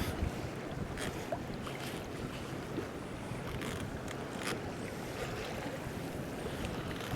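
Wind buffeting the microphone and choppy sea water lapping against a drifting kayak's hull, with a few brief slaps of water.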